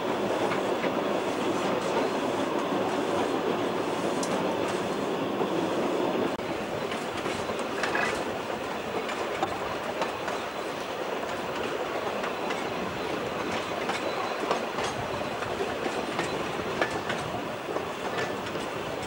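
Narrow-gauge passenger train running, heard from aboard an open-sided wooden carriage: a steady rolling rumble of wheels on track with scattered light clicks and clatter, a little quieter from about six seconds in.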